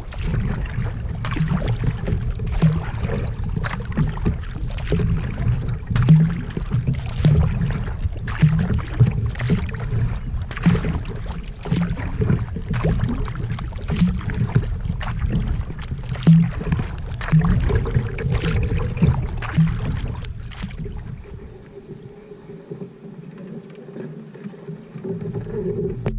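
Kayak paddle strokes dipping and splashing in the water, about one stroke a second, over a steady low rumble. The strokes stop about twenty seconds in.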